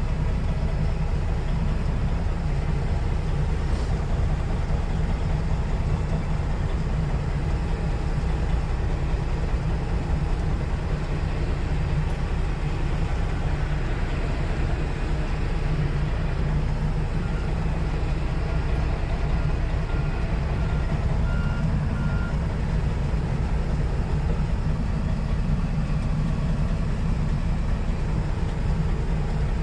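Semi truck's diesel engine running steadily, heard from inside the cab. About two-thirds of the way through, a backup alarm sounds a series of about eight short beeps, roughly three every two seconds.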